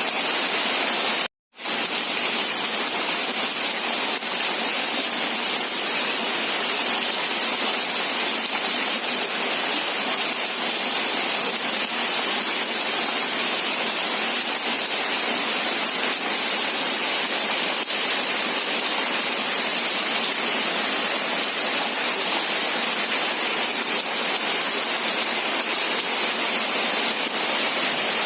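Steady rain, a dense even hiss with no separate drops standing out. It cuts out completely for a moment about a second and a half in, then resumes unchanged.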